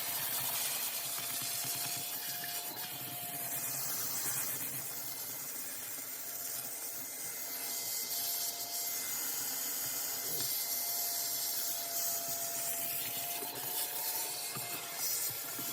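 Vacuum running with a steady motor whine while its nozzle is dragged and rubbed over the interior surfaces, the airflow hiss swelling and fading as it moves.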